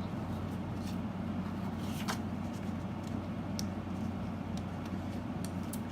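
Steady low room hum with a few faint, brief rustles and clicks, about four in all, as a sticky-backed chalk transfer sheet is handled.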